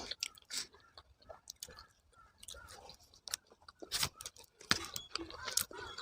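A person chewing food close to the microphone, with wet mouth clicks and smacks; the sharpest come about four and five seconds in.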